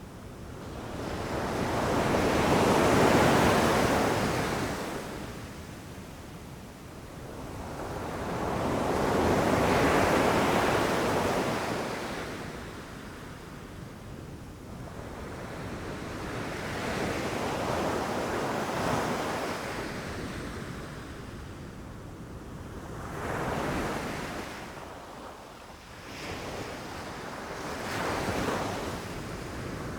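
Ocean waves breaking on a beach in slow surges, two large swells of surf a few seconds in and about ten seconds in, then smaller waves washing in every five seconds or so, with some wind on the microphone.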